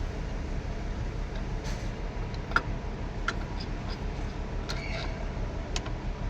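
Scattered short metallic clinks and taps of tools at work on an excavator engine, the sharpest about two and a half seconds in. They sit over a steady low drone.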